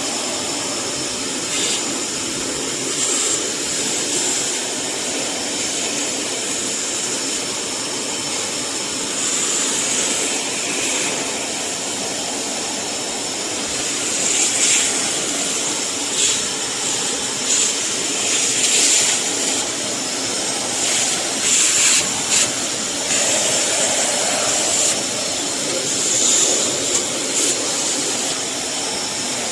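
Kärcher WD 6 wet-and-dry vacuum (1300 W) running with a steady motor drone and airy hiss, broken in the second half by several brief louder rushes of air.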